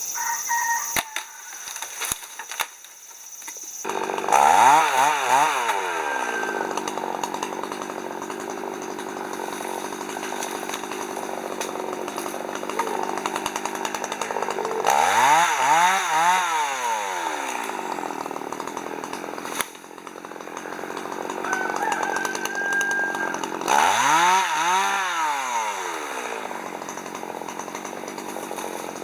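Chainsaw cutting firewood. It runs steadily and revs up and back down three times: about four seconds in, midway, and near the end.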